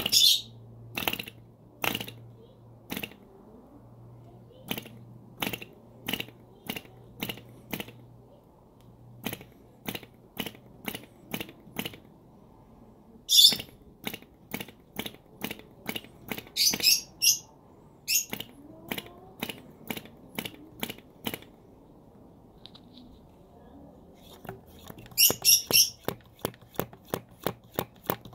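Movo D2 model diesel engine being flicked over by hand to start it: a string of sharp clicks every half second or so as the propeller is flipped through compression. A few short, louder hissy bursts come between the clicks.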